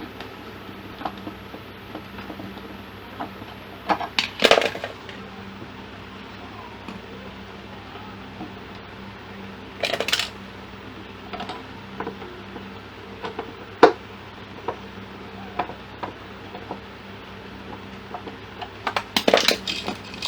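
Small metal objects clinking and clattering in short bunches, four times, with single clicks between, over a steady low hum.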